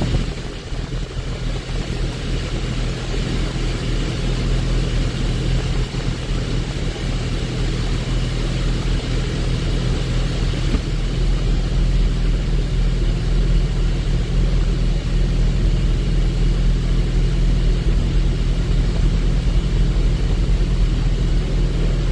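Porsche GT4's flat-six engine running steadily with no revving, along with road and wind noise.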